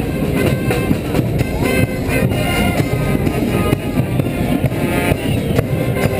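A street band playing, with horns and drums.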